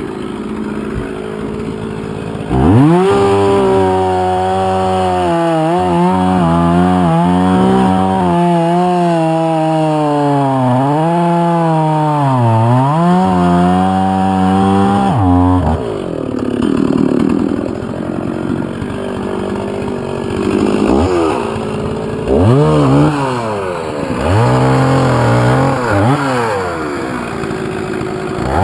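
Chainsaw revved up about two and a half seconds in and held at high speed through a cut, its pitch sagging and recovering as the chain loads in the wood. About halfway it drops back toward idle, then revs up and down in several short surges.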